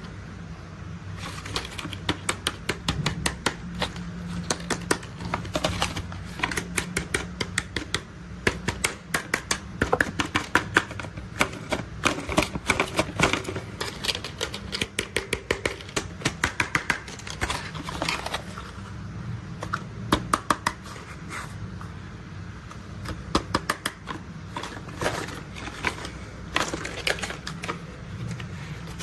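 Rapid runs of sharp plastic clicks, several a second, with a few short pauses, from toy construction vehicles being handled, over a steady low hum.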